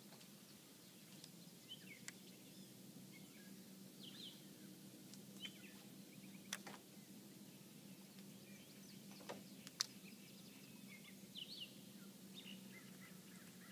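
Near silence with scattered faint bird chirps and two sharp clicks a few seconds apart midway.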